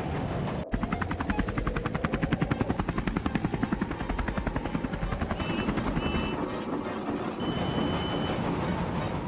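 Helicopter sound effect: a fast, even rotor chop of about ten beats a second that lasts about four seconds, then gives way to a steadier rumble.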